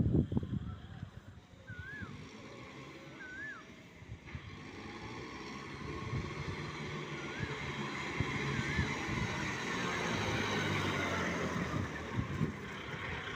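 Four-wheel-drive tractor engine running, growing steadily louder over several seconds as it comes closer. A few short whistled chirps sound in the first half.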